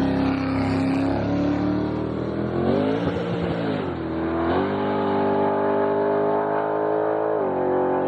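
Gutted F-body Camaro race car's engine running hard on a test pass down the street. The pitch dips and climbs again about three to four seconds in, then steps down near the end.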